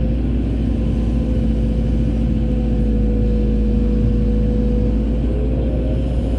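Excavator's diesel engine running steadily: a deep rumble with a steady whine on top that sags slightly in pitch midway.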